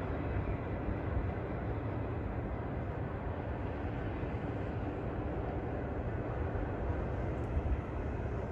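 Steady low rumble of a distant train, with a faint steady hum above it.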